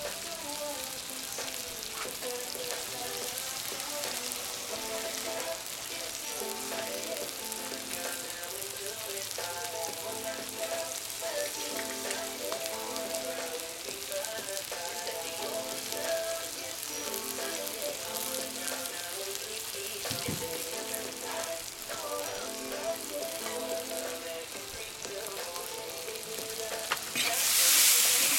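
Meat and julienned carrots sizzling steadily in hot oil in a cast-iron kazan, the zirvak stage of plov. Near the end the sizzle surges louder as the carrots are stirred and turned.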